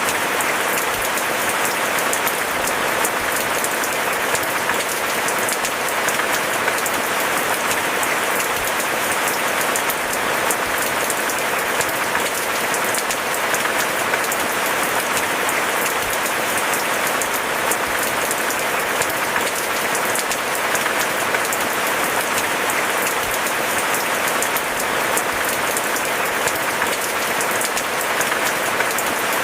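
Steady rain: a dense, even patter of many small drop ticks that holds unchanged throughout.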